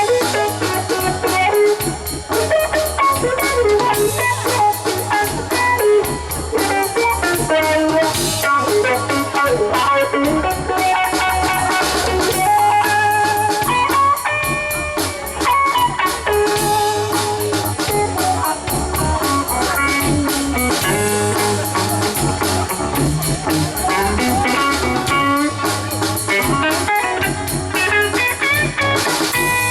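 Live rock band playing psychedelic rock: guitar over bass and drum kit, with a steady beat.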